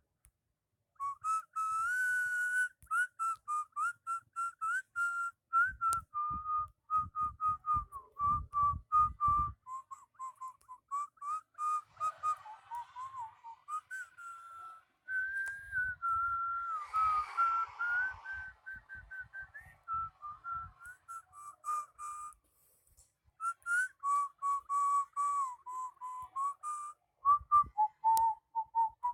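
A whistled melody: one clear pitch moving from note to note in short phrases, with faint high ticks behind it.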